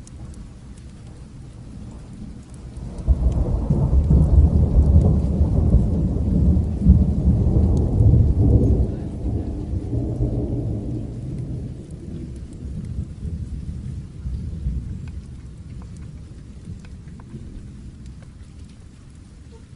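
A long roll of thunder swells in about three seconds in, rumbles deep and loud for several seconds, then dies away slowly, over steady rain.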